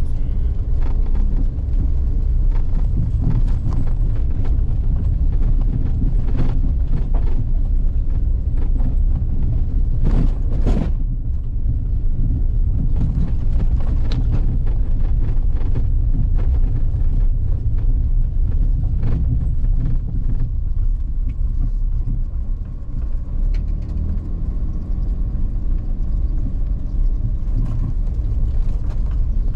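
A vehicle driving along an unpaved forest road: a steady low rumble with scattered knocks and rattles from the rough surface.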